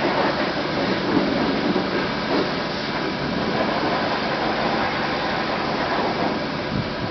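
Automatic car wash running: a steady rushing rumble of water spray and brushes working over a car.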